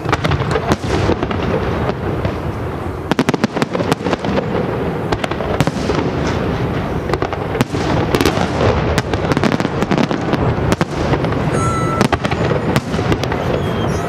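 Fireworks display: aerial shells bursting one after another, a continuous rumble of booms with many sharp bangs, most densely packed about three to four seconds in.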